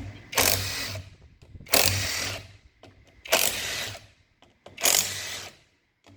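A power driver runs in four short bursts, about a second and a half apart, spinning out the engine's outer crankcase bolts one after another.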